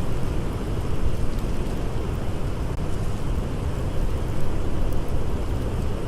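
Blizzard wind blowing in a steady low roar, with a few faint crackles of a campfire.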